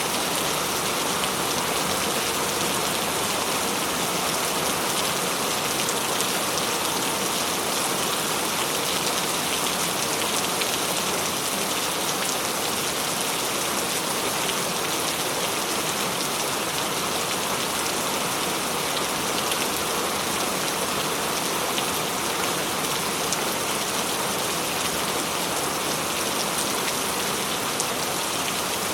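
Steady heavy rain falling on surfaces, a constant hiss with small scattered drop ticks and no thunder.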